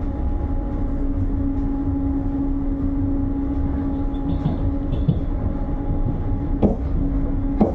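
Passenger train carriage running at speed, heard from inside: a steady low rumble with a constant hum over it, and two brief knocks near the end.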